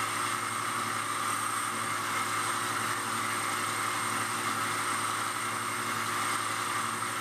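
Grinder running steadily: an even hiss over a low motor hum, with no breaks or changes.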